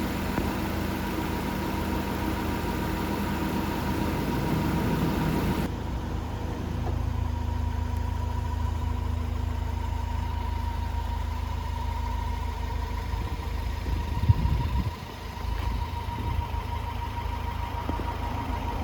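Honda Torneo SiR (CF4) engine idling steadily through an aftermarket muffler. About six seconds in the sound turns duller, and a brief knock comes near the end.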